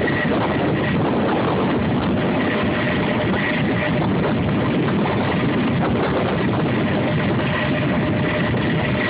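Military helicopter running: a steady, loud mechanical noise with a thin, high steady whine over it.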